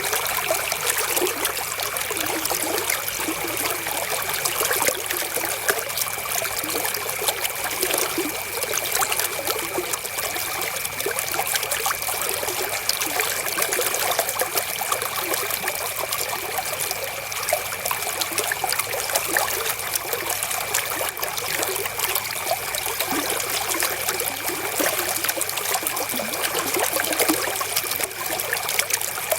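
River water flowing in a steady, unbroken trickle.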